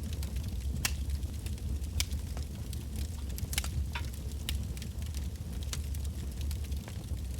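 Wood bonfire burning: irregular sharp crackles and pops of the burning logs over a steady low rumble of the flames.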